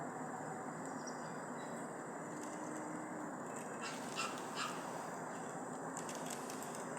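An animal calling: two short calls in quick succession about four seconds in, over a steady hiss.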